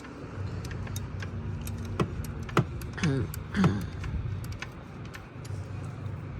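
Irregular light metallic clicks and clinks of sockets and a wrench being handled on a car battery terminal, over a low steady hum.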